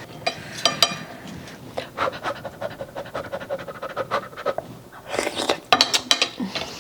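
Close-up eating sounds: chewing, with wet mouth clicks and heavy breaths through the nose, as the cooked orange chicken is tasted.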